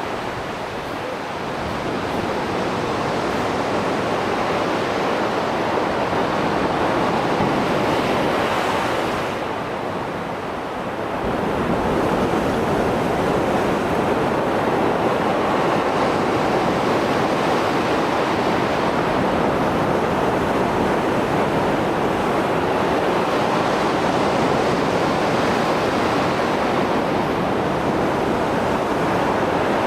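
Mediterranean surf after a storm: waves breaking and washing continuously, easing off twice, near the start and about ten seconds in, before surging back up.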